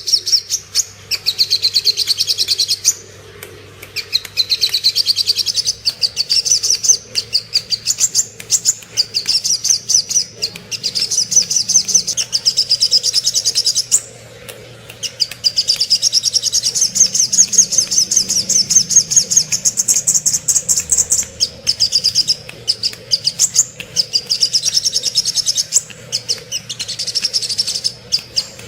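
Sogok ontong (brown-throated sunbird) singing: long runs of rapid, high chirping notes strung into trills, with a couple of short pauses.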